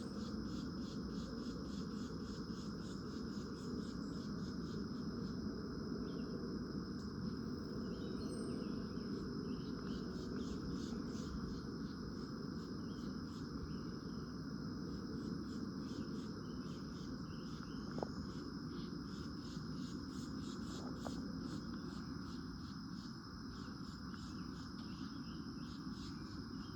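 Insects chirping steadily, a continuous high-pitched pulsing of about four pulses a second, over a steady low background rumble, with a single faint click near the end.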